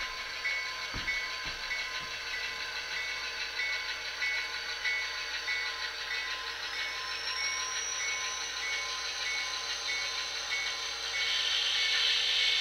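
Sound-decoder diesel locomotive sounds from an HO scale GP40-2, an EMD turbocharged diesel, playing through the model's speaker. The engine sound runs steadily with a high tone pulsing about one and a half times a second. There are a few low knocks in the first two seconds, a whine rising about halfway through, and a louder hiss near the end.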